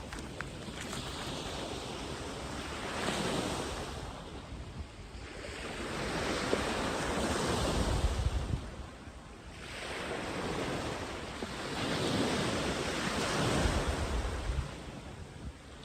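Surf breaking and washing up the sand, the wave noise swelling and fading in long surges every four to five seconds.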